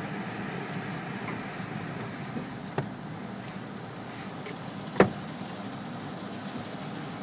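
Steady hum of a car sitting in neutral at the entrance of a conveyor car wash tunnel, heard from inside the car, with a light click about three seconds in and a single sharp knock about five seconds in.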